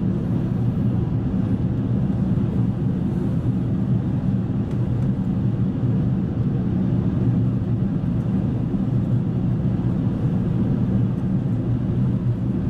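Airbus A380 airliner cabin noise: a steady low rumble of engines and airflow that stays even throughout.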